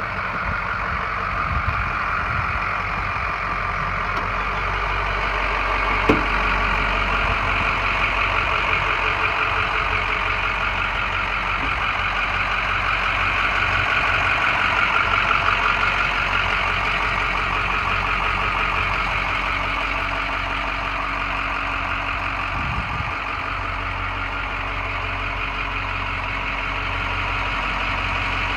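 2007 Ford F-550 bucket truck's engine running steadily, with one sharp knock about six seconds in.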